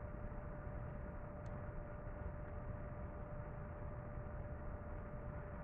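Metal lathe running steadily, a constant hum with one steady tone held throughout.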